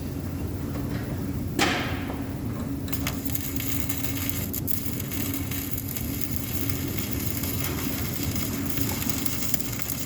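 Electric arc welding: a steady hum with a single sharp knock about a second and a half in, then from about three seconds the arc is struck and runs with a steady, dense crackle.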